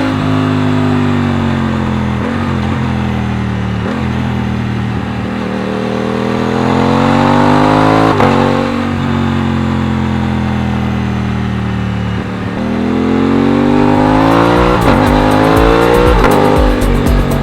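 Aprilia RS660 parallel-twin engine under way: revs fall for the first few seconds, then climb under acceleration, with a gear change about eight seconds in. Revs sink again and rise hard once more toward the end.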